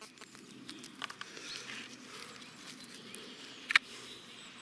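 A few light clicks, then one sharp loud click about three and a half seconds in, over a faint outdoor background.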